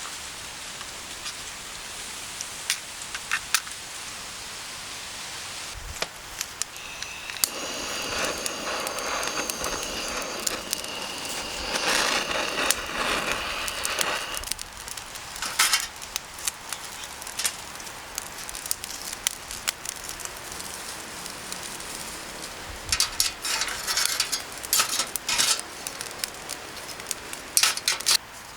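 Wood fire crackling, with a steady hiss and irregular sharp pops that come thickest near the end. A thin high whistling sounds for several seconds in the middle.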